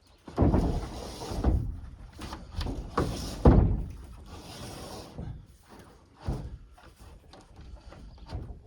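Irregular knocks and thuds from handling and fitting a metal roof sandwich panel, the loudest about three and a half seconds in, with fainter clatter after.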